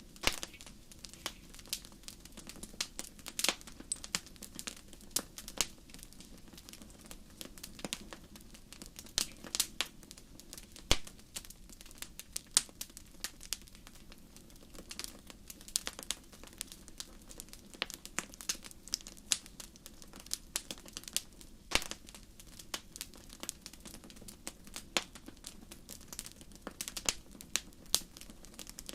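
Wood fire crackling: a stream of irregular sharp pops and snaps over a steady low hum.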